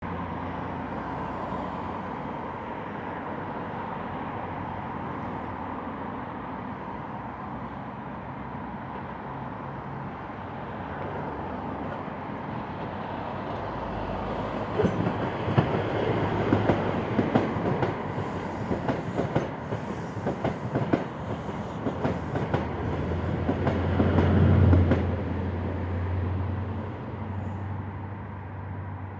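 A diesel train passing: its engine running steadily, then a rapid run of wheel clicks over rail joints from about 15 seconds in, loudest around 25 seconds before easing off.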